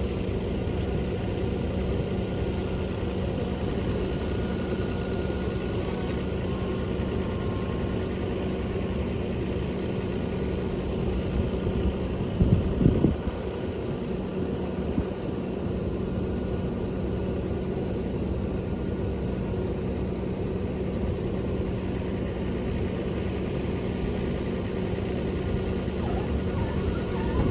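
Truck engine running steadily with a constant low hum. About halfway through there is a brief louder knock.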